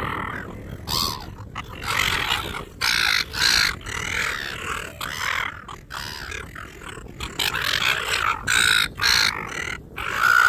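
Several wild birds squawking harshly over and over, one short call after another, as they squabble over food being offered.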